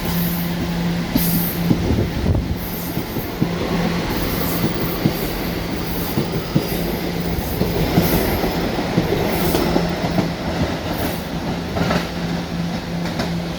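Staten Island Railway electric train running along the track, its wheels clattering irregularly over the rail joints over a steady hum.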